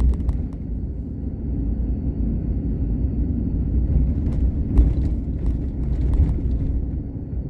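Steady low road and engine rumble of a car heard from inside the cabin while driving, with a few faint clicks and knocks about two-thirds of the way through.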